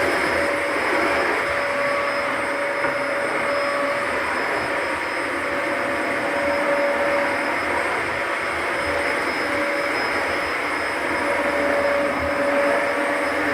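Vacuum cleaner running steadily on a hard floor: an even rush of air under a steady whine from the motor.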